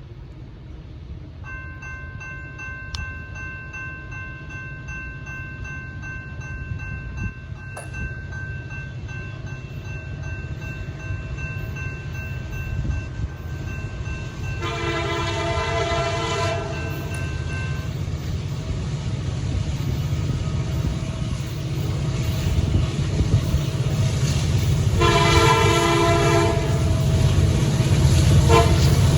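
CSX freight locomotives led by an EMD SD70AC approaching upgrade, their diesel engines working hard in a low rumble that grows steadily louder. The lead unit's air horn sounds two long blasts, about 15 and 25 seconds in, and starts a third right at the end: the grade-crossing horn sequence.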